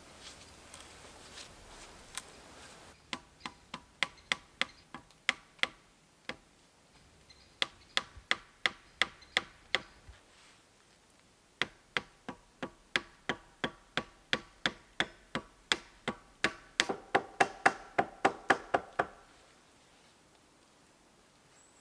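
A series of sharp knocks, about three a second, in three runs separated by short pauses. The last and longest run rings slightly after each strike.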